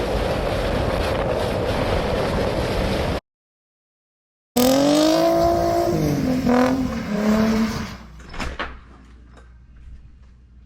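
Loud steady rushing noise that cuts off abruptly, then after a second of silence a car engine revving, its pitch dipping and rising again, followed by a few faint knocks.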